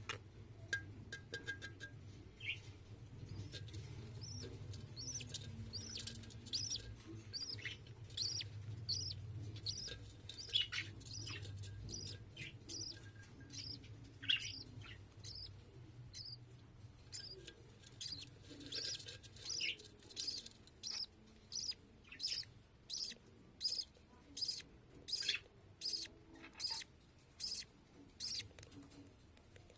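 Budgerigar chick chirping as it is fed: short, high, curved chirps that become a fast, regular run of about two a second in the second half. A faint steady low hum runs underneath.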